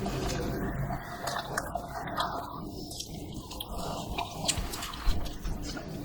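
Close-up eating sounds: wet chewing of dosa with scattered sharp mouth clicks and squishes.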